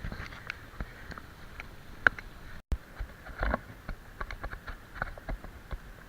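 Footsteps on a trail, a string of uneven thuds and clicks, muffled because the recorder is sealed in a waterproof case; the sound cuts out for a moment a little under three seconds in.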